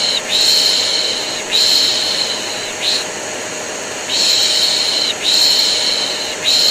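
A person shushing ('piş piş') in a repeating pattern of three long shushes and one short one, over the steady drone of a vacuum cleaner. This is white noise for soothing a colicky baby to sleep.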